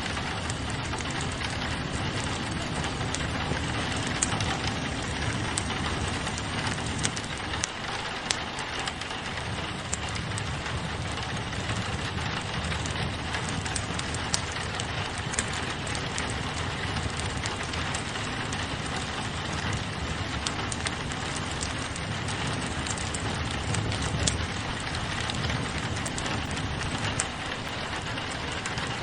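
Steady rain pattering on a window together with a crackling wood fire in a fireplace, with scattered sharp crackles over the even hiss of the rain.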